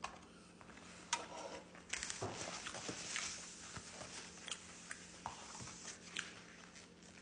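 Close-miked eating sounds: soft chewing with scattered small mouth clicks and smacks.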